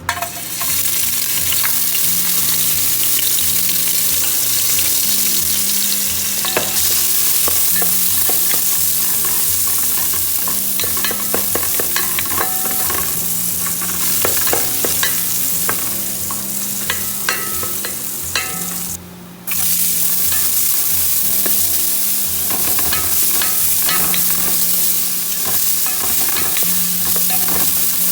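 Chicken pieces frying in hot oil in a pot, with a steady sizzle, while a spoon stirs and scrapes against the pot, giving scattered clicks and knocks.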